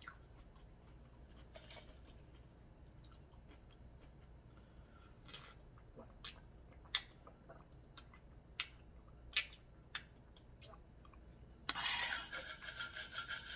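A person drinking from a cup: faint, scattered mouth clicks and swallows. Near the end a louder steady noise starts.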